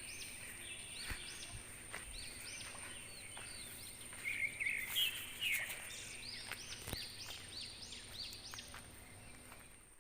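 Birds chirping in quick, repeated short arched notes, busiest around the middle, over a thin steady high tone.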